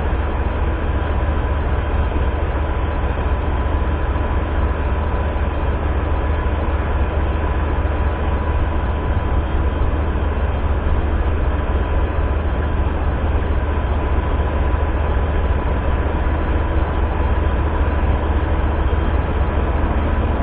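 Steady low rumble of a passenger train, unchanging throughout, with a faint steady tone above it.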